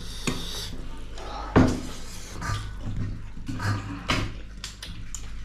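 Mealtime eating sounds: dishes and utensils knocking and clinking, with one sharp knock about one and a half seconds in and a few softer knocks after, over a steady low hum.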